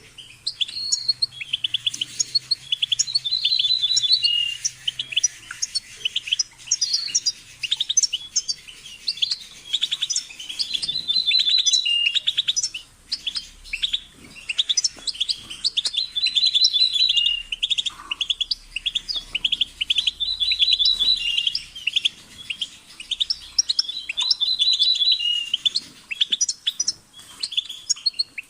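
European goldfinch singing: fast twittering phrases of rapid chirps and trills, broken every few seconds by short pauses.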